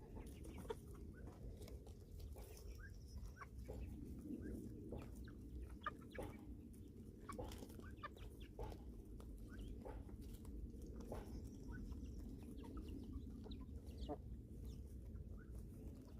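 Chickens clucking: short, scattered calls over a low steady hum.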